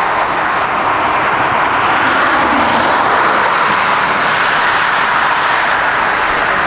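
Jet airliner engines passing close by, a loud, steady rushing noise that swells slightly about halfway through.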